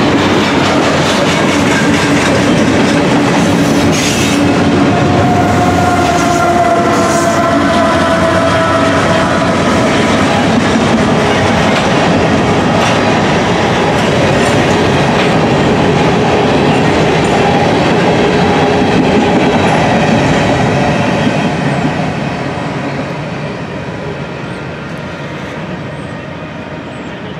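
Freight train cars rolling past close by: loaded steel-coil flatcars and covered grain hoppers, a steady clatter and rumble of wheels on rail with a few high-pitched wheel tones over it. About 22 seconds in it begins to fade as the last cars pass and the train draws away.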